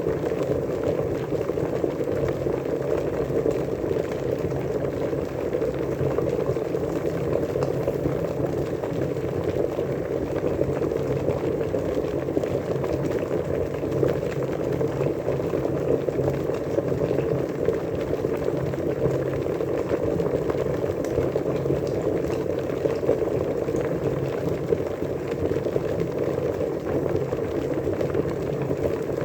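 Water at a steady rolling boil, a dense, even bubbling that does not change.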